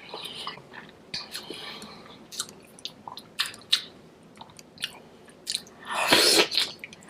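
Close-up mouth sounds of chewing oxtail and curry goat: many short wet clicks and smacks. Near the end comes a louder noisy rush lasting about half a second.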